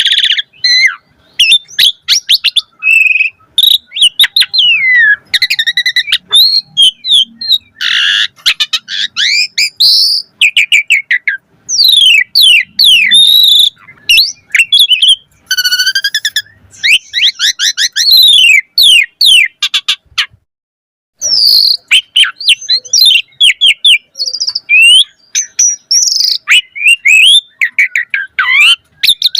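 Asian pied starling (jalak suren) singing a long, busy song of rapid whistles, chirps and downward-sweeping notes, packed with varied mimicked phrases, with a brief pause about twenty seconds in.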